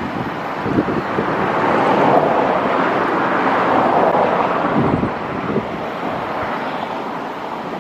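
Wind buffeting the microphone in low thumps, under a rushing noise that swells over a few seconds and then fades.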